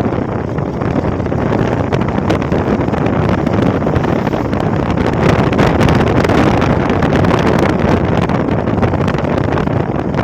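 Wind buffeting the microphone on a moving motorcycle, a Hero XPulse, with its engine running underneath; the rush grows a little louder around the middle.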